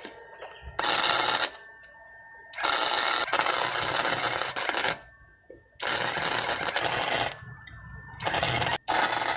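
Welding arc crackling in five sharp-edged bursts, the longest about two and a half seconds, with short pauses between them: stitch-welding a thin exhaust pipe onto heavier metal.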